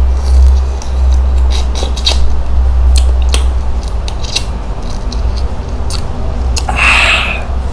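Crisp clicks and crackles of cooked shrimp shells being broken apart by hand while eating, over a steady low rumble; a short hissing rush near the end.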